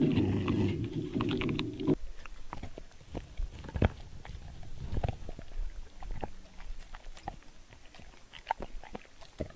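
Dog chewing and crunching its food, a run of irregular wet clicks and crunches. A loud low steady rumble is heard first and cuts off suddenly about two seconds in.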